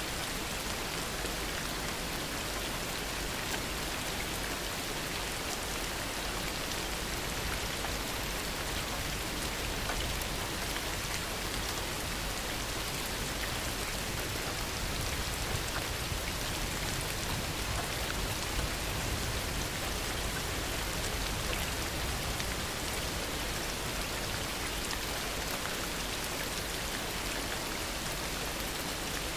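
Steady heavy rain falling, an even hiss with faint individual drop ticks.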